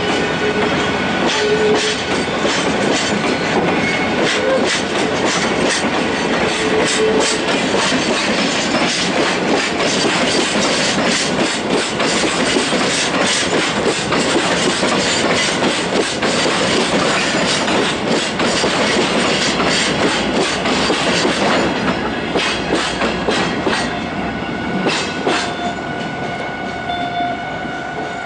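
Freight train of cement tank wagons rolling slowly past, the wheels clacking steadily over the rail joints. The clatter thins out near the end as the last wagons go by.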